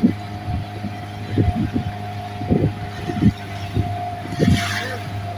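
An engine running steadily, with repeated low thumps and a brief hiss about four and a half seconds in.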